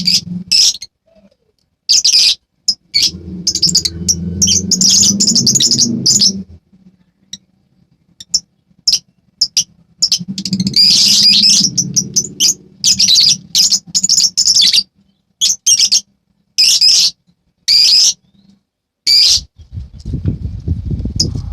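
Lovebirds chattering: loud, shrill chirps in bursts of a second or two, broken by short pauses, with the longest runs about a quarter of the way in and around the middle.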